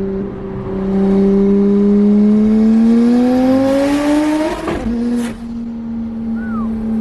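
BMW 335i's single-turbo N54 inline-six under acceleration: the engine note holds steady, then climbs for about two seconds. Around five seconds in it breaks off in a short noisy burst as the throttle comes off, then runs on steadily.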